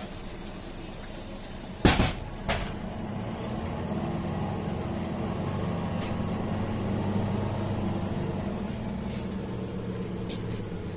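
City bus, a MAN A21, running with its engine humming steadily; a sharp loud thump about two seconds in, then a smaller one, after which the engine grows louder with a faint rising whine as the bus gathers speed.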